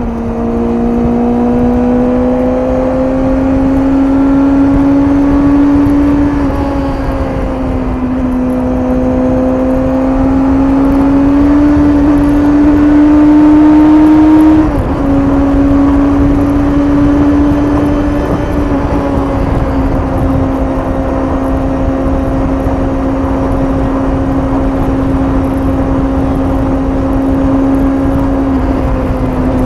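Suzuki GSX-S750's inline-four engine through its stock exhaust on the highway, climbing slowly in pitch under throttle. It drops sharply twice, about 7 and 15 seconds in, as gears change, and it is loudest just before the second shift. After that it settles into a steady cruise, with wind rushing underneath.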